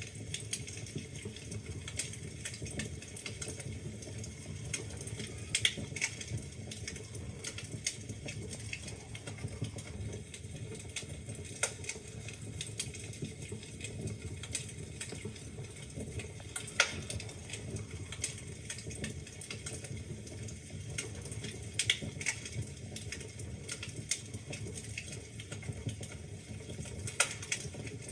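Wood fire burning in a fireplace: constant irregular crackling and snapping of logs over a low, steady rumble of the flames, with an occasional louder pop.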